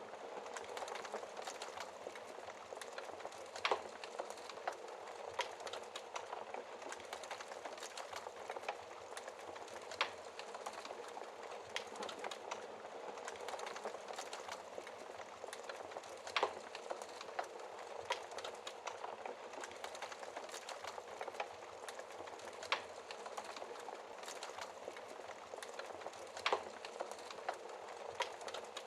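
Wood fire burning logs in a fireplace: a steady crackle of small ticks over a soft hiss. About five sharper pops stand out, a few seconds apart.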